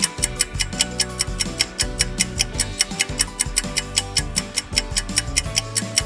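Countdown-timer music: a steady clock-like ticking, about four ticks a second, over low held notes.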